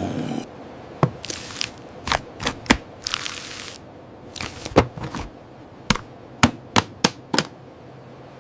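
Clatter of gear being packed away: about a dozen sharp, irregular clicks and knocks, with a few short rustling swishes between them.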